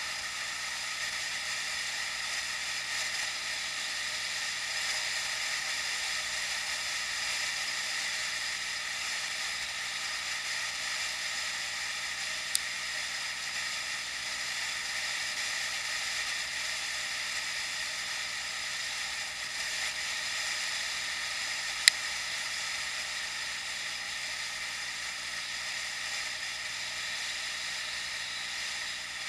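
Steady hiss of wind and riding noise picked up by an action camera during a bike ride, with two sharp clicks, one about a third of the way in and a louder one about three quarters of the way through.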